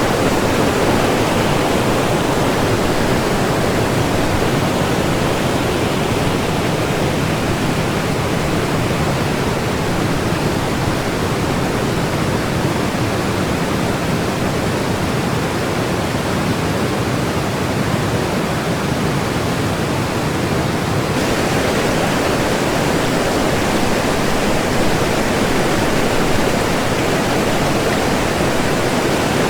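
Fast white water of the Kolvitsa river rushing steadily, a dense even wash of noise. About two-thirds of the way through it turns abruptly brighter and more hissing.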